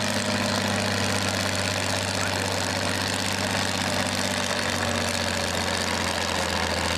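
Tractor engine running steadily at low speed, a deep even hum.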